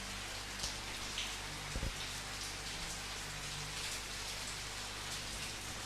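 Steady rain falling, with scattered louder drop hits and a short low thud about two seconds in.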